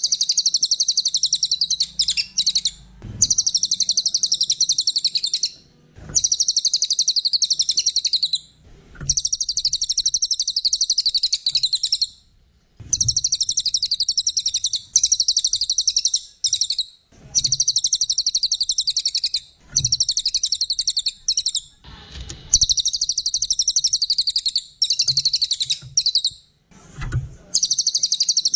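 A small songbird known to Indonesian bird-keepers as the cililin, singing in bouts of fast, high-pitched chattering trills about two to three seconds long, broken by short pauses. A few faint low knocks sound between bouts.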